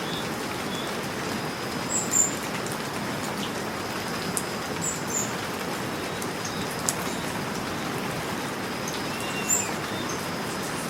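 Steady rain falling, an even hiss of drops. A few short, high bird chirps cut through it, the loudest a little after two seconds in and again near the end.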